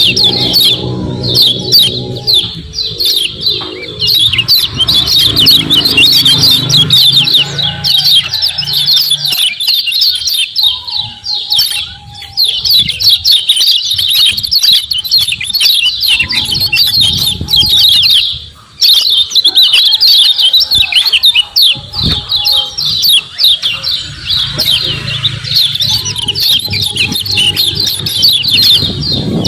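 Kecial kuning white-eyes giving rapid 'ciak ciak' chirps in a dense, continuous chatter, with a short lull about two-thirds of the way through.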